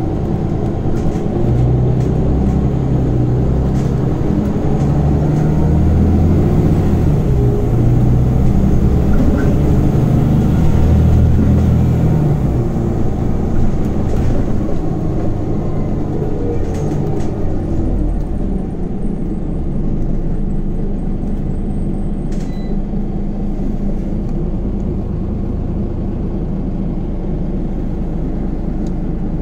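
Scania Omnicity CN94UB city bus heard from on board, its engine working hard under load for about the first twelve seconds. The load then drops away and the engine runs lower and steadier as the bus rolls on.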